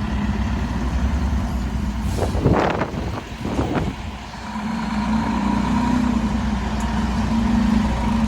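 Fire truck's diesel engine running with a steady low rumble that builds from about halfway through as the rig pulls out. Two short hissing bursts, like air brakes releasing, come about two and a half and nearly four seconds in.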